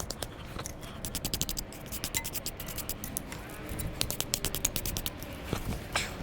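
Rapid, irregular scraping and clicking.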